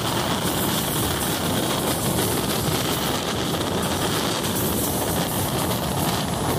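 Moving train's steady running noise, an even rumble and rush with no breaks or separate clacks.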